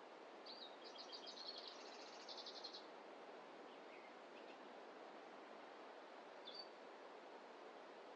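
A small songbird sings a fast trilling phrase of about two seconds, then a few short single high chirps follow, over a faint, steady rushing background.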